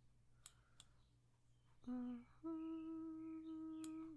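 A woman humming: a short low note about two seconds in, then a long, steady higher note. A few soft clicks come before it.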